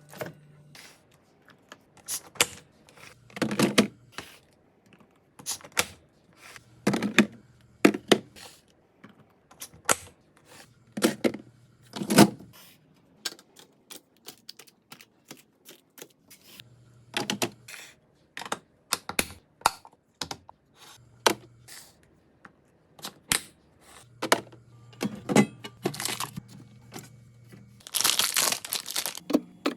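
Kitchen handling sounds of restocking a refrigerator: irregular clicks, taps and knocks of containers, bottles and lids being set down and closed, with about a second of rustling plastic packaging near the end.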